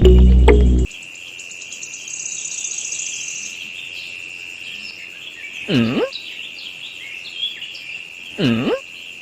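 Music cuts off about a second in, giving way to a steady high insect chirring, likely crickets, with birds chirping. Two short calls that swoop down and back up, about three seconds apart, stand out as the loudest sounds after the music.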